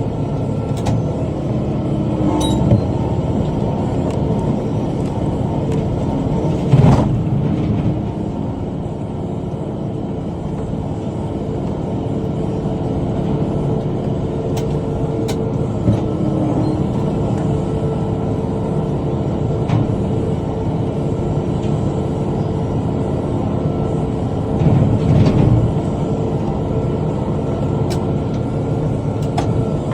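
Tractor engine running steadily under load while pulling a bush hog rotary cutter through brush. A few thumps and knocks break through, the loudest about seven seconds in and around twenty-five seconds in.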